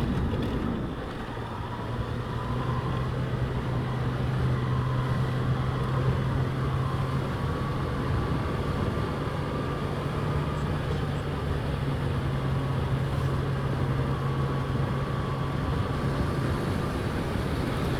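Motorcycle engine running at steady revs while riding, with wind and road noise over the camera microphone.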